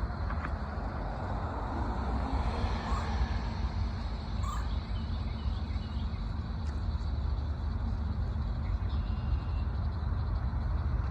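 Engines running steadily with a continuous low rumble.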